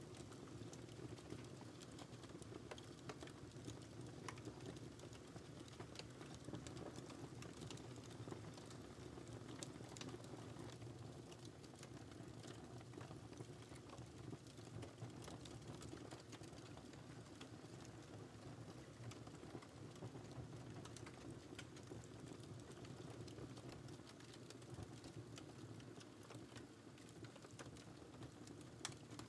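Quiet wood fire crackling in a fireplace: irregular small snaps and pops over a steady low rush of burning.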